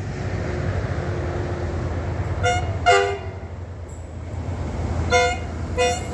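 Doodlebug rail vehicle rumbling steadily as it crosses the trestle bridge. Its horn gives four short toots in two pairs, one pair about halfway through and one near the end: a horn salute.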